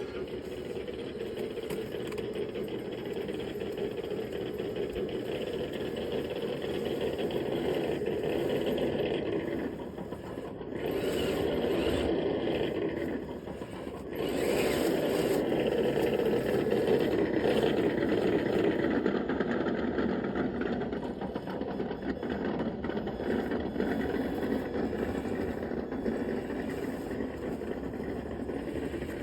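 Traxxas TRX6 6x6 RC truck's electric motor and geared drivetrain whirring steadily as it drives, easing off briefly twice, about ten and fourteen seconds in.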